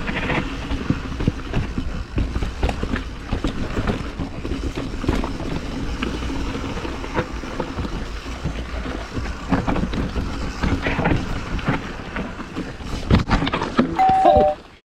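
Mountain bike riding fast down a dirt trail: tyres on dirt and wind over the action-camera microphone, with the chain and frame rattling and knocking over bumps. Near the end a brief high squeal steps down in pitch, then the sound cuts off suddenly.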